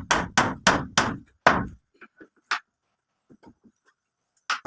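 Hammer blows at a quick steady pace, about three a second, stopping about a second and a half in. Then a few faint knocks and one more sharp blow near the end.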